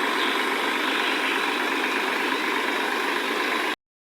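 Tractor engine running steadily, cutting off abruptly near the end.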